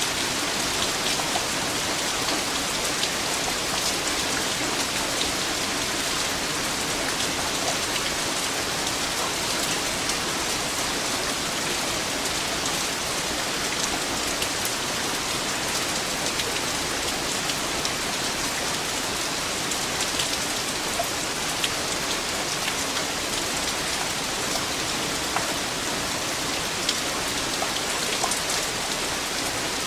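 Steady rain falling on a surface, an even hiss with many small drop impacts.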